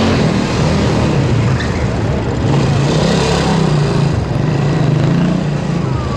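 Small motorcycle engine running at low revs, its pitch rising and falling a little as the throttle is worked at low speed.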